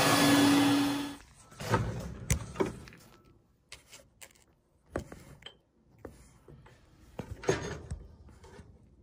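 A loud rush of air with a steady motor hum cuts off about a second in. Scattered knocks and clunks of metal parts being handled follow.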